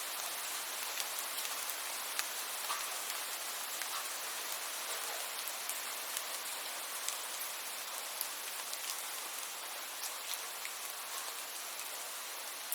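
Steady rain: an even hiss of falling rain with many scattered sharp ticks of single drops striking a surface.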